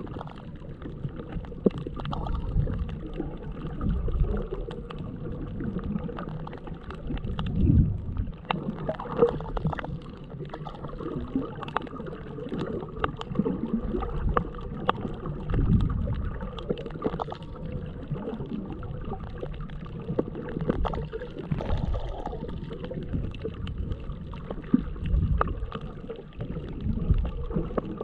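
Underwater sound picked up by the bare microphone of a GoPro Hero7 with no waterproof case: muffled rumbling and sloshing of moving water that swells and fades every few seconds, with a steady crackle of small clicks over it.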